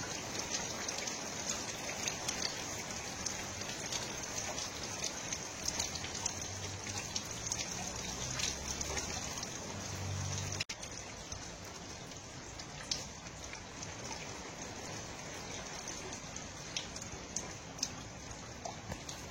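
Steady rain falling, with many separate drops ticking. A little past halfway the sound changes abruptly and gets slightly quieter.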